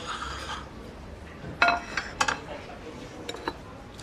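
Dishes and chopsticks clinking on a dining table as food is shared out: a cluster of sharp clinks around the middle, then two lighter ones.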